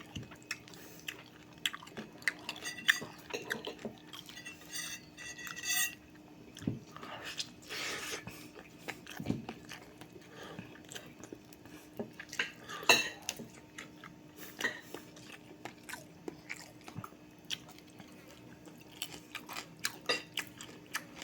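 Close-miked chewing and crunching of fried dried fish (bulad), with scattered clicks and clinks of cutlery on a plate. A faint steady hum runs underneath.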